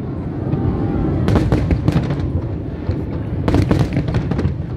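Fireworks display: a continuous low rumble of shell bursts, with two clusters of sharp crackling bangs, about a second in and again about three and a half seconds in.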